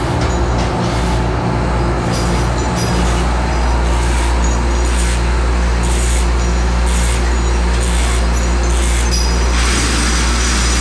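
Workshop machinery running: a steady low motor hum under broad machine noise, with a sharper, higher noise that comes and goes every second or so.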